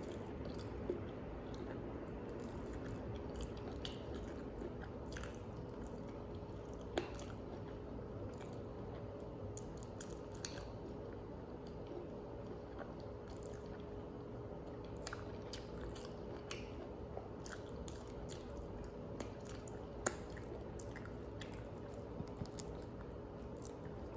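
A person chewing and biting food close to the microphone, with many small crunches and wet mouth clicks, a few of them sharper and louder.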